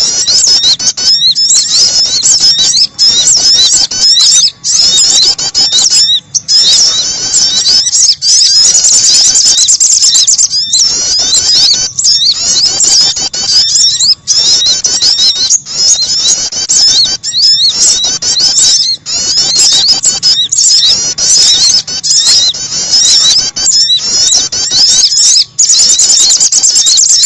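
Bird-lure recording of small birds, sogon and prenjak, calling: a loud, dense run of rapid high-pitched chirps and twitters, broken by brief pauses every second or two.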